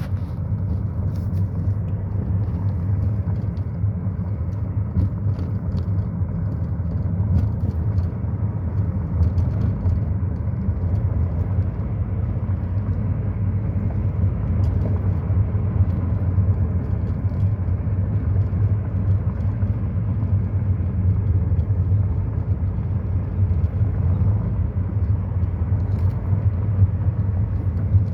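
A car running with a steady low rumble that stays even throughout.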